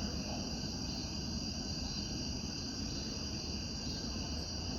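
Steady chorus of insects, like crickets, trilling without a break.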